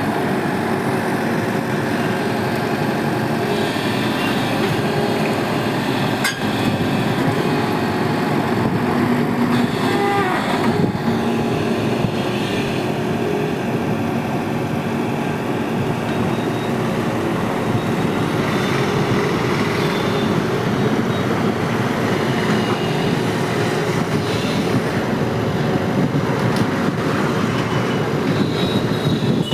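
Excavator engine running steadily under load, with a single sharp knock about six seconds in.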